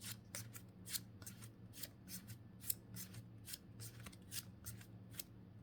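Pokémon trading cards being flicked through one at a time in the hand: an irregular run of short swishes and snaps as each card slides against the next.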